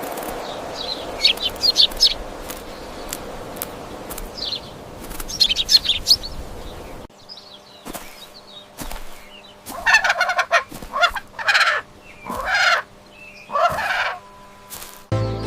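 Domestic fowl calling. Short, high chirps come over a steady background hiss, and after a cut about seven seconds in there is a series of louder, fuller calls.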